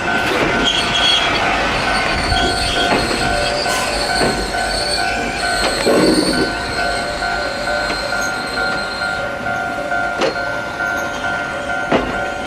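Izuhakone Railway 1100 series electric train running past with a rumble and wheels knocking over rail joints, the loudest knocks near the end. A steady repeating two-tone ringing, a level crossing warning bell, sounds throughout.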